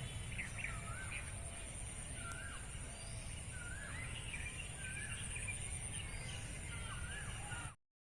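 Several birds calling with short, rising and falling notes, over a steady high-pitched pulsing buzz and a low rumble. All sound cuts off abruptly near the end.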